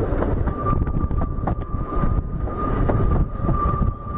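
Heritage train carriages running round a curve, heard from on board: a steady low rumble of wheels on rail with a few sharp knocks from the rail joints. Over it runs a thin, steady high squeal of the wheel flanges grinding on the curve.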